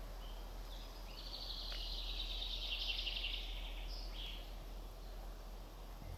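A songbird singing a high, fast trilling song that steps between several pitches, lasting about four seconds.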